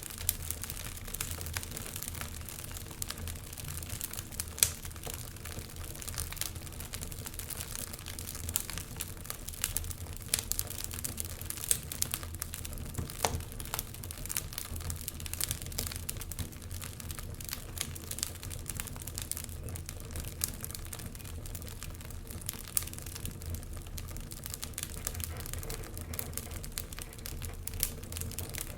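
Wood fire crackling in a fireplace: irregular sharp pops and snaps from the burning logs over a steady low rumble. There is a louder pop about four and a half seconds in.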